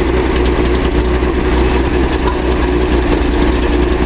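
Datsun 280Z's L28 fuel-injected inline six idling steadily, not yet up to operating temperature, running evenly on a replacement fuel injector that has largely cured its misfire.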